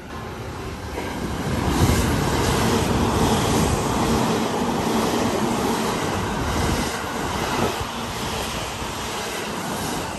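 Limited express electric train running past a station platform at speed: a rush of wheel and air noise with a steady hum underneath. It swells about two seconds in and eases off after about eight seconds.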